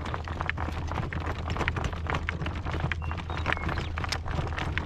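Horse trotting in harness at a working trot: a quick run of hoofbeats over a steady low rumble.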